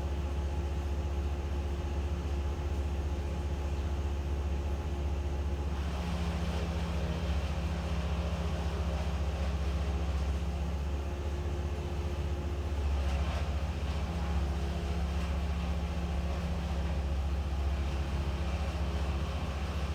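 An engine running steadily at a constant speed, a low rumble with a few steady hum tones; from about six seconds in it picks up a little more high-pitched noise.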